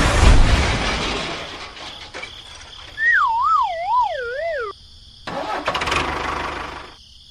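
A small engine running, loud at first and then fading. About three seconds in comes a clean tone that wobbles up and down while sliding lower in pitch, and it cuts off abruptly. The engine sound returns briefly and dies away near the end.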